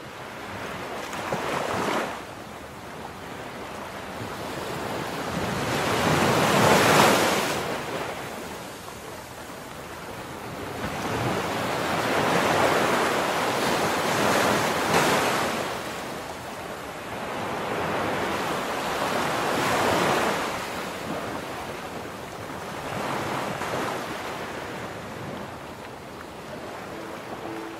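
Sea surf: waves breaking and washing in, swelling and ebbing every few seconds, the loudest about seven seconds in.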